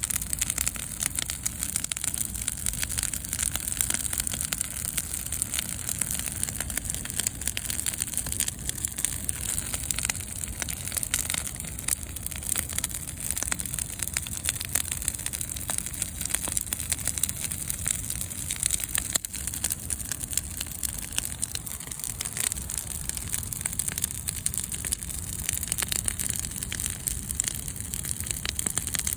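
Wood fire burning, with a dense, steady crackle of small pops and a low rumble.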